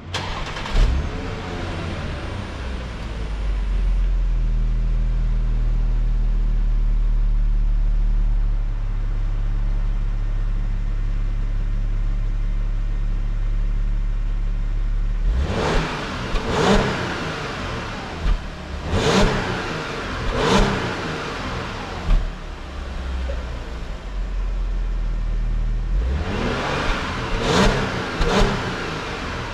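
The supercharged V6 of a 2017 Audi A7 Competition starts up and runs at a raised cold-start idle, which settles a little lower after several seconds. Later the engine is revved in a series of quick throttle blips, rising and falling each time, with a second group of blips near the end.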